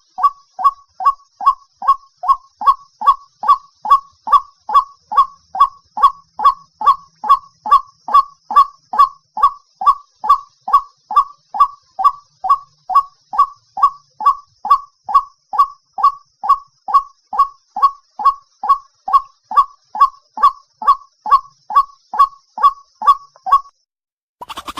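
White-breasted waterhen call used as a hunting lure: one short, harsh 'kwak' note repeated evenly about twice a second, stopping shortly before the end.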